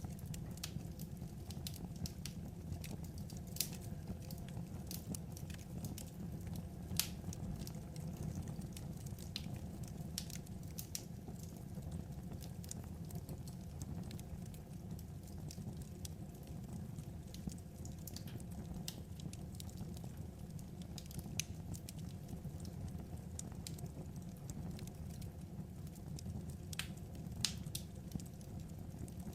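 Firewood burning, crackling with many small sharp pops over a steady low rumble; a few pops stand out louder than the rest.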